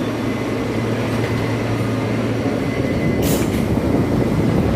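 New York City subway car running, heard from inside: a steady rumble of wheels and motors with a low hum that drops out about two and a half seconds in, and a short hiss about three seconds in.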